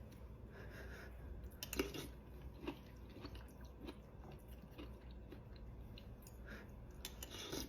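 A person chewing food with soft, irregular wet mouth clicks, and a few sharper bites about two seconds in and near the end.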